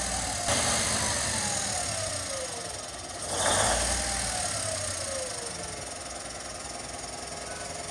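Cummins VTA-1710 V12 turbodiesel running just after start-up, revved twice about three seconds apart, each time the pitch falling back over a couple of seconds before it settles to a steady run.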